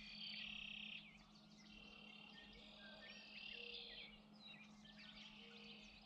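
Faint birdsong: several buzzy trills lasting about a second each, with short chirps in between, over a steady low hum.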